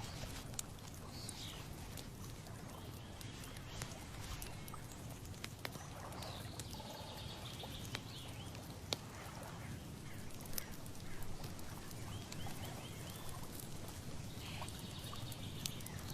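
Outdoor nature ambience: birds calling now and then, with short chirps and a quick run of repeated notes near the end, over a low steady rumble of wind, with a few scattered sharp clicks.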